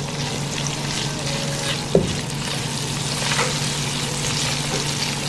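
Sliced onions sizzling in hot oil in a non-stick pan while being stirred with a spatula, with one sharp knock about two seconds in.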